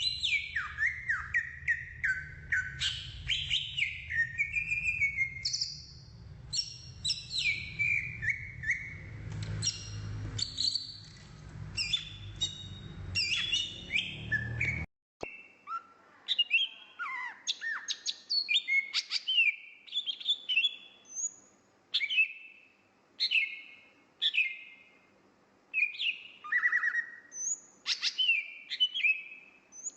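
Oriental magpie-robin (kacer) singing a rapid, varied song of whistled phrases, chirps and down-slurred notes. About halfway a low background rumble cuts off abruptly after a brief gap, and the song carries on over a quieter background.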